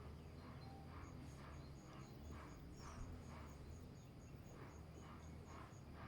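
Faint animal calls: a regular series of short high-pitched chirps, about four a second, starting about a second in and stopping near the end, over softer lower pulses about twice a second.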